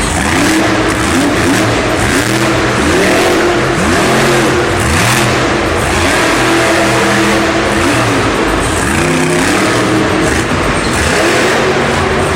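Monster truck's supercharged V8 revving hard again and again, its pitch climbing and dropping repeatedly, over a constant wash of arena noise.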